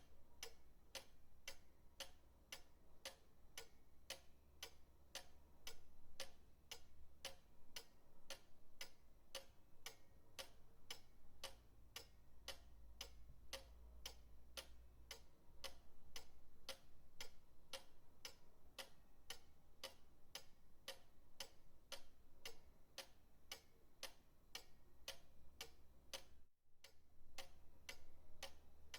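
Pendulum clock ticking faintly in a steady, even rhythm, with a brief dropout near the end.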